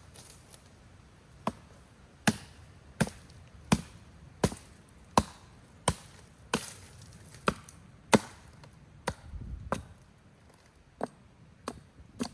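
Firewood being chopped: a blade strikes wood with about fifteen sharp, evenly paced blows, roughly one every three quarters of a second, spacing out a little near the end.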